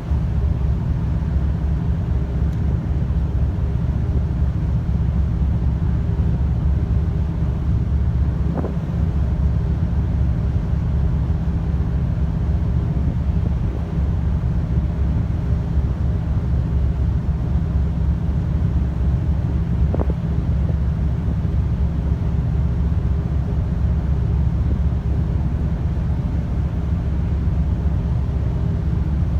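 Steady low rumble of the car ferry Katsuragi's engines and hull under way, with a constant hum and wind buffeting the microphone.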